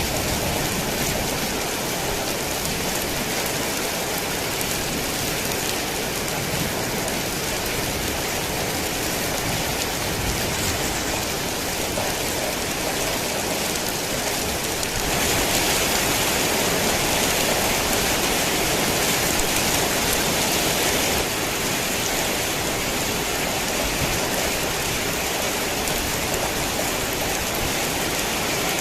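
Heavy rain falling steadily, a dense even hiss of drops on surfaces. About halfway through it grows louder for around six seconds, then drops back suddenly.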